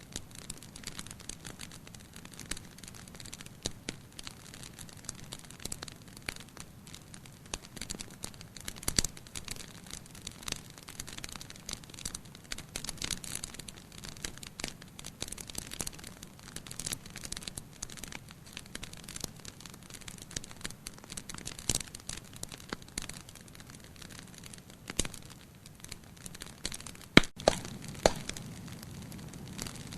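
Wood fire crackling in a fireplace: a dense run of small crackles over a low rumble, with a few sharper pops, the loudest two near the end.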